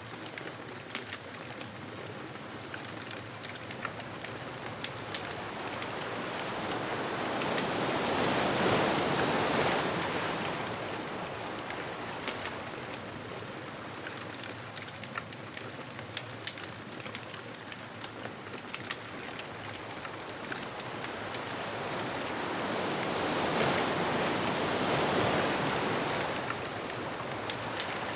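Ocean waves washing onto a beach, two surges swelling up and falling away, one about a third of the way in and one near the end, with the faint crackle and pops of a bonfire throughout.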